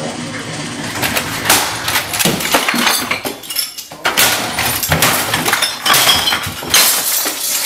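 Repeated crashing and smashing as things in a room are struck and knocked about, with glass clinking and breaking.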